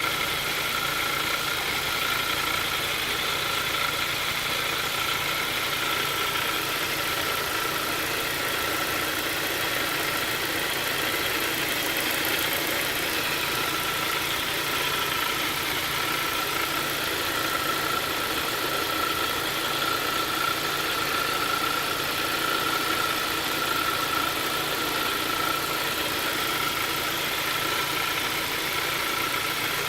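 Engine idling steadily, with a constant whining tone above the running noise: the sound the owner calls weird.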